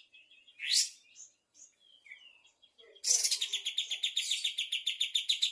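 Kapas tembak songbird singing: soft chirps, one loud rising whistle under a second in, then from about three seconds a loud, rapid trill of repeated high notes, about nine a second.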